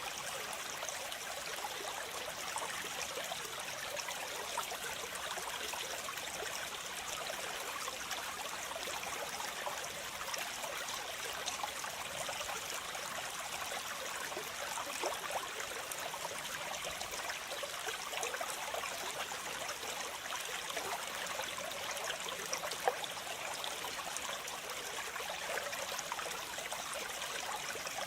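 Waterfall with water splashing and trickling, a steady rushing hiss with many small splashes.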